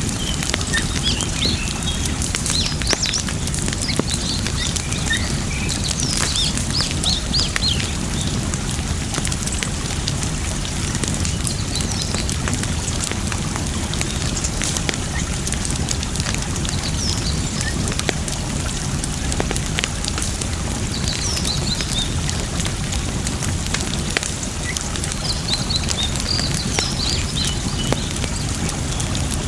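Campfire crackling with sharp pops over a steady rush of running water, while small birds chirp now and then, most around the start and again near the end.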